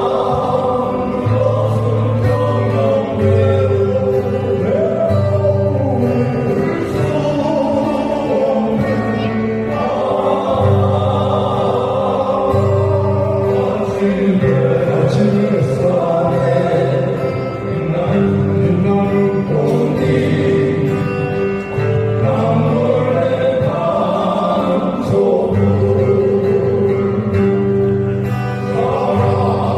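A song performed with singing over acoustic guitar accompaniment, with low bass notes that change every second or two under a sung melody.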